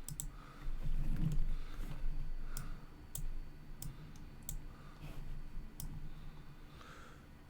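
Sparse, irregular clicks of a computer mouse, about seven over several seconds, over a faint low steady hum.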